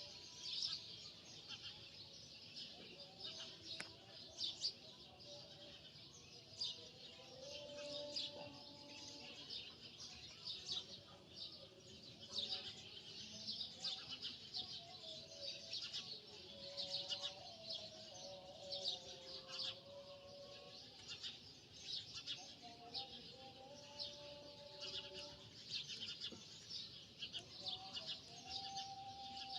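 Many birds chirping together in a faint, continuous chorus.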